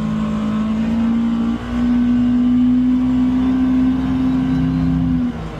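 Polaris Xpedition UTV engine pulling under steady throttle on a trail. Its note steps up a little about a second and a half in, holds, and eases off near the end.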